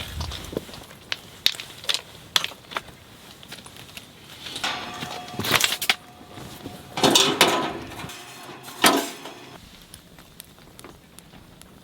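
Camping gear being handled during setup: scattered light clicks and clinks, with louder bursts of rustling and clattering about five and seven seconds in and a sharp knock near nine seconds.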